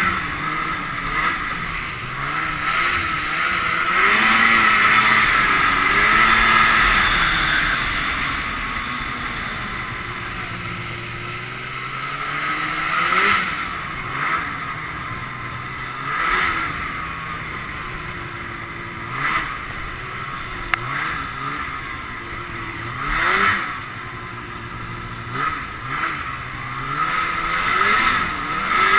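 Ski-Doo Blizzard 5500 snowmobile's fan-cooled Rotax twin two-stroke engine running under way, its pitch rising and falling with the throttle. It holds a long high rev early on, then makes a series of short sharp throttle surges.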